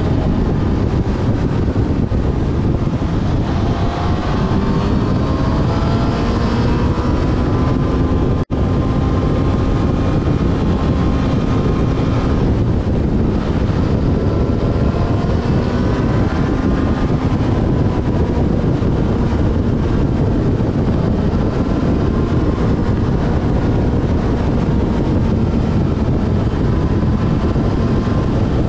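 Yamaha Fazer FZ6S inline-four motorcycle engine running on the move, its pitch rising and falling with the throttle, under heavy wind noise on the microphone. The sound cuts out for an instant about eight seconds in.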